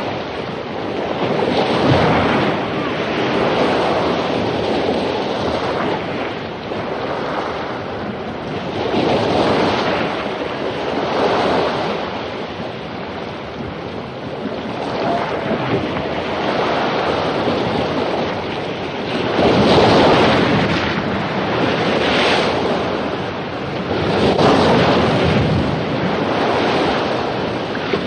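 Surf from storm-driven ocean waves breaking on a beach, a continuous wash that swells and recedes every few seconds as each wave crashes, with wind noise.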